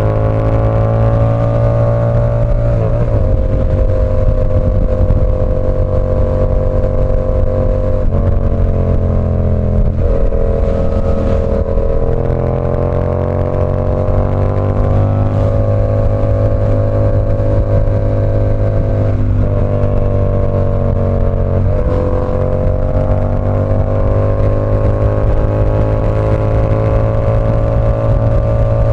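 Yamaha R7's parallel-twin engine running through an SC Project CR-T exhaust under way, its note holding fairly steady with slow rises. The note breaks and jumps in pitch several times, as at gear changes.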